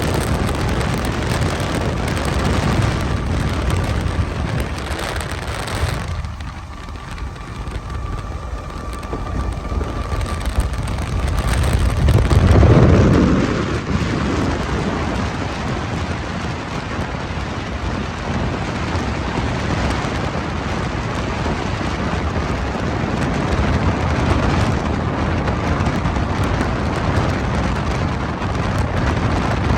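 Freight train rolling past: a steady, loud rumble and rail noise, with a brief louder swell that drops in pitch about thirteen seconds in.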